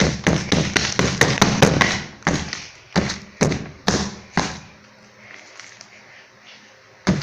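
Clear slime being kneaded and slapped against a tabletop by hand: a quick run of wet slaps and sticky pops, then single slaps about twice a second, a lull of a couple of seconds, and slapping again near the end. The slime is still partly sticky, just given more activator.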